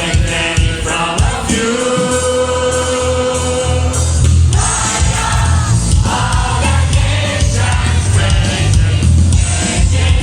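Gospel worship music: a choir singing over a band, with one long held note and a heavy bass line coming in about two seconds in.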